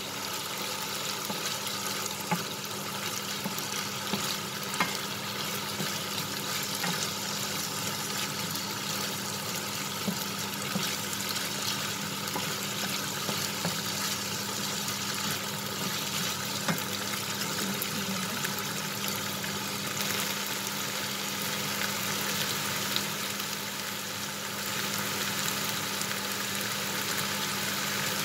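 Minced pork sizzling steadily as it is stir-fried in a non-stick frying pan, with wooden spatulas scraping and clicking against the pan now and then.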